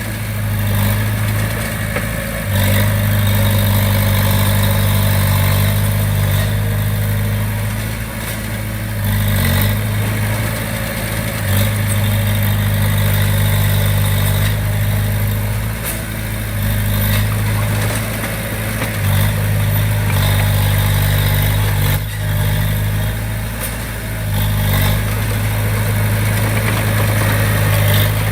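Small crawler bulldozer's diesel engine running steadily, the note rising and falling every few seconds.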